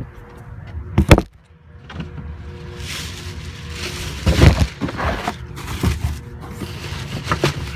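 Handling noises at a car's trunk: a sharp knock about a second in, then rustling and knocking with a heavier thump midway.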